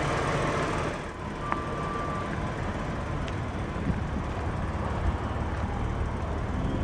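Mitsubishi 3000GT's 3-litre DOHC 24-valve V6 idling steadily, with a short electronic beep from the car about one and a half seconds in.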